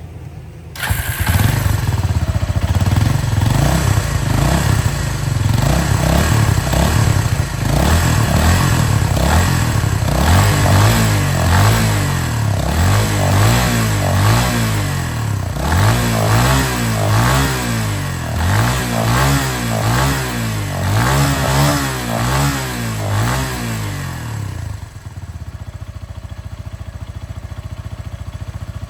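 Kawasaki Estrella RS's single-cylinder four-stroke engine firing up about a second in and running, then revved up and down over and over. It settles to a quieter steady idle near the end.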